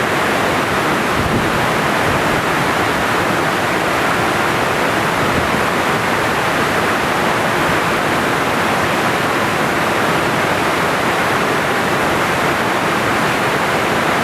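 Waterfall rushing, a loud, steady noise of falling water that doesn't change.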